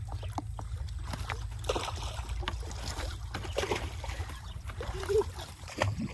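Water splashing and sloshing, with scattered short knocks and thuds, as live fish are grabbed and handled in water.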